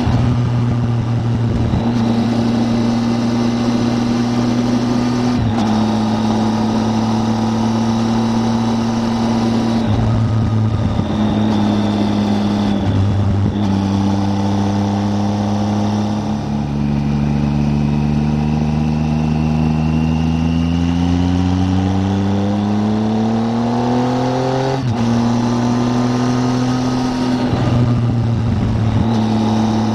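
Triumph Tiger 800's three-cylinder engine under way on the road, running at steady revs with several changes in pitch as the throttle and gears change. Past the middle the revs climb steadily for about eight seconds, then drop suddenly at an upshift.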